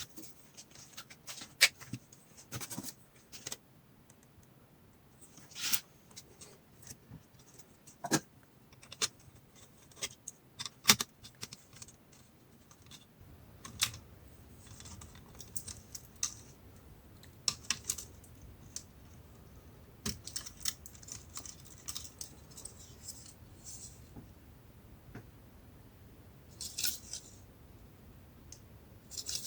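Scattered clicks, taps and short scrapes of small plastic and metal parts and tools being handled while an Acer Aspire 3 A315-21 laptop is taken apart, with a few sharper snaps among them. A faint low hum comes in about halfway through.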